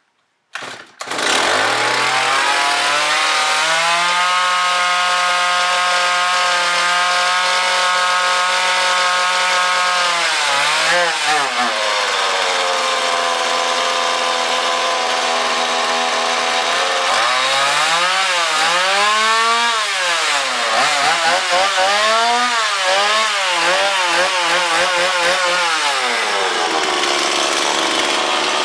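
Stihl MS 170 two-stroke chainsaw catching about a second in and running at a steady fast idle, then dropping to a lower idle. In the last third it is revved up and down several times in quick succession and settles back to idle. It takes throttle without stalling or bogging, now that the blocked fuel-tank vent has been cleared.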